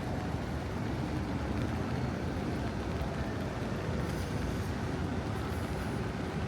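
Steady city street ambience: a continuous low rumble of traffic, with no single sound standing out.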